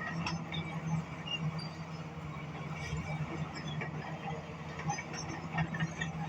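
Bulldozer's diesel engine running steadily under load, with scattered clanks and short high squeaks from the machine working.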